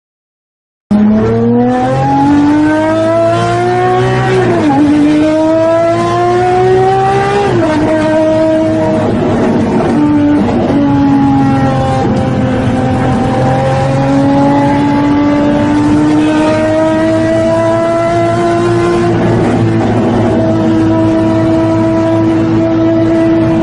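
Sports car engine heard from inside the cabin, accelerating hard. It starts about a second in, climbs in pitch, drops at two upshifts about four and a half and seven and a half seconds in, then holds a steady high note at speed.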